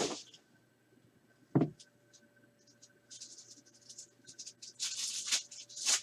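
Crinkling and rustling of trading-card pack wrappers and packaging being handled and torn open, in quick irregular bursts that grow busier toward the end, with a single knock about a second and a half in.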